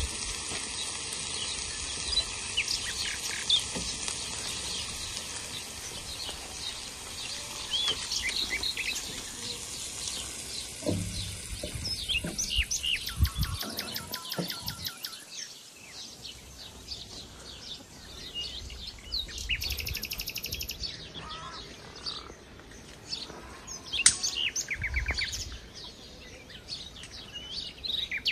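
Birds chirping and calling, many short high calls scattered throughout, over a steady high hiss that fades out about halfway through.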